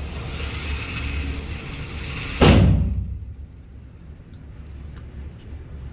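A motorized range target carrier running along its track with a whir for about two seconds, then one loud bang about two and a half seconds in that dies away within half a second.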